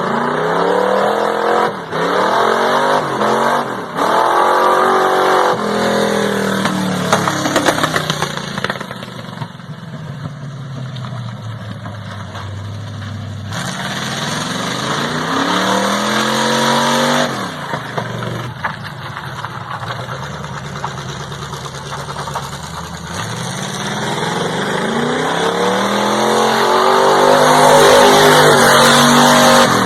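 Squarebody Chevy drag truck's engine revving hard, its pitch climbing and dropping back over several repeated pulls.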